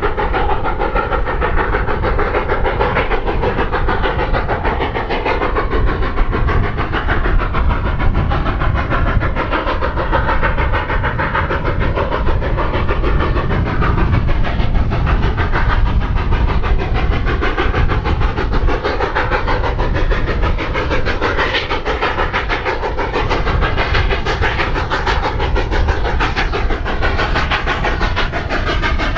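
Narrow-gauge steam train running: a steady rumble with continuous clatter and hiss.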